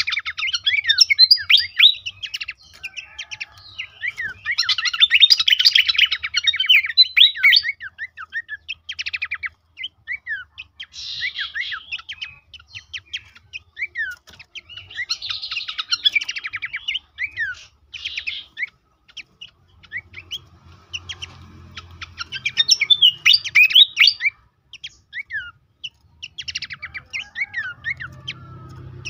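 Pelanduk semak (Horsfield's babbler) singing: loud bursts of quick, varied chirps, whistles and fast clicking trills, coming every few seconds with short pauses between them. A faint low hum sits underneath.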